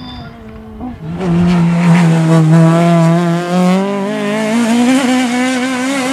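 Peugeot 306 Maxi rally car's naturally aspirated four-cylinder engine at high revs. It is quieter at first, then loud from about a second in, holding a steady pitch before climbing in steps.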